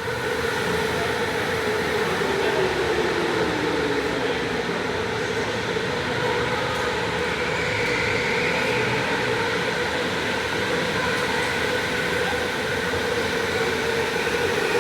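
Electric go-kart motor whining steadily under noise from the tyres and running gear. The pitch of the whine drops about a second in and again near the end as the kart slows.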